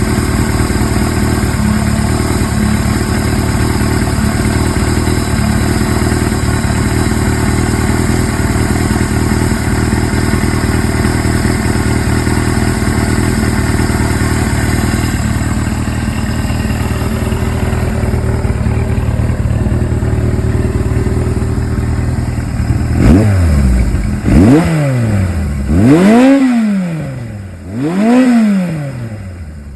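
Suzuki GS-series air-cooled inline-four motorcycle engine, running on CVK carburetors, idles steadily. In the last several seconds it is revved in a series of quick throttle blips, each rising and falling in pitch.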